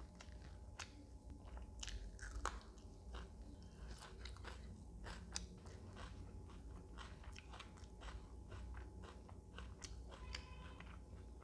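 Close-up chewing and biting: irregular wet mouth clicks and small crunches of a person eating.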